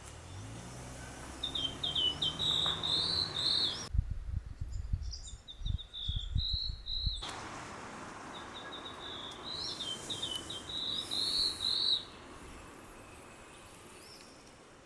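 A small songbird singing three short phrases of quick high notes a few seconds apart. There are low thuds in the middle.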